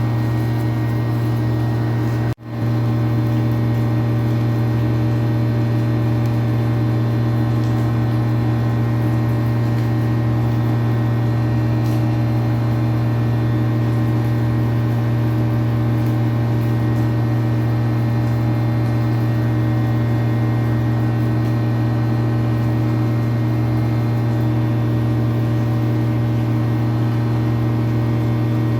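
A small electric motor, likely a power tool, running steadily with a constant hum and no change in speed. It drops out briefly about two and a half seconds in, then resumes unchanged.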